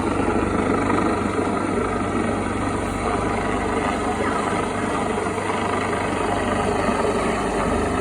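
Helicopter running steadily, its turbine and rotor making a dense, even noise over a low hum with a fast, even beat in the lowest range.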